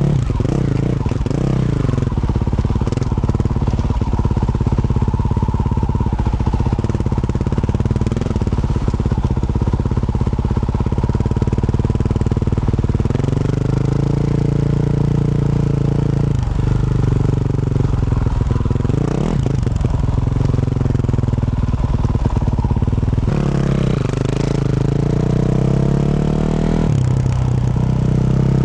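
2024 Yamaha YZ450F's single-cylinder four-stroke engine, breathing through a Yoshimura RS-12 exhaust, running under load while being ridden. It holds steady revs for long stretches, with the pitch dropping and climbing back several times as the throttle is rolled off and picked up again.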